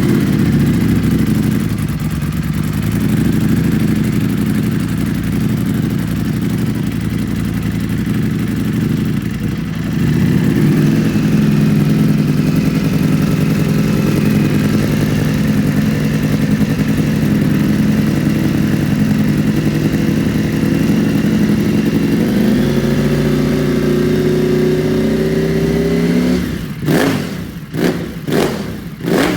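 Ducati Panigale V4 Speciale's 1103 cc Desmosedici Stradale V4 engine idling steadily just after start-up, its idle rising slowly toward the end. In the last three seconds the throttle is blipped several times in quick succession, each rev rising and falling sharply.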